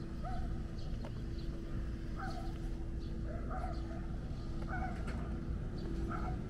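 A bird calling, short rising-and-falling notes repeated every second or so, often in pairs, over a steady low hum.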